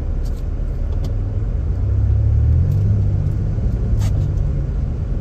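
Car driving, its low engine and road rumble heard from inside the cabin, swelling about two seconds in, with a single short click near the end.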